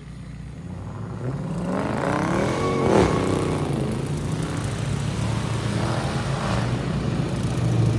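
Car engine revving hard, the pitch climbing to a loud peak about three seconds in and dropping back, with a second shorter rev near the six-second mark.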